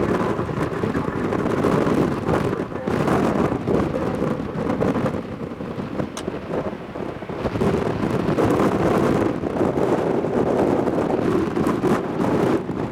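Strong gusty wind buffeting the microphone: a loud, uneven rumble that swells and dips with the gusts, with one brief click about six seconds in.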